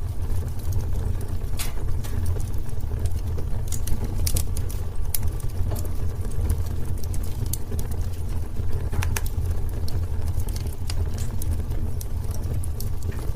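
Wood fire burning in a fireplace: a steady low rumble of flame with scattered sharp crackles and pops, two of them louder, about a second and a half in and about nine seconds in.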